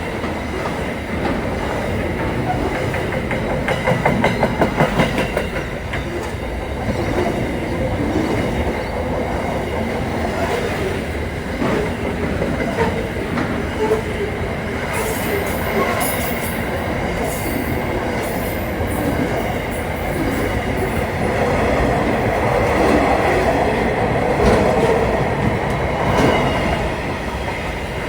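Train running on the rails with a steady rumble, and a quick run of wheel clicks over rail joints about four seconds in.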